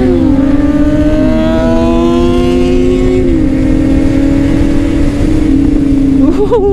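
Honda CBR600RR's inline-four with a Leo Vince exhaust pulling under acceleration: the engine note climbs, then drops with an upshift, three times in the first few seconds. It then holds a steady pitch, and near the end there is a brief wavering of the revs.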